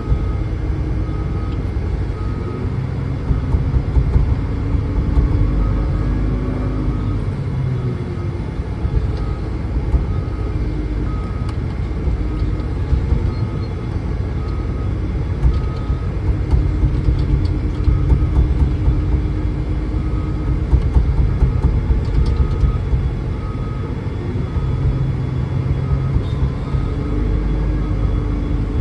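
Heavy diesel engine of a haul truck running under load, a low rumble whose pitch rises and falls slowly. A faint high beeping repeats in short runs throughout.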